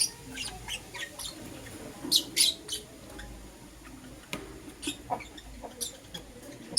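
Lovebirds chirping: short, sharp, high-pitched chirps at irregular intervals, loudest in a quick run about two seconds in.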